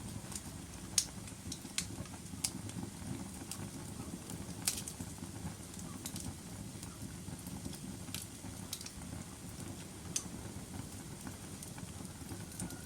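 Log fire burning in a fireplace: a steady low rush of flames with irregular sharp crackles and pops from the wood.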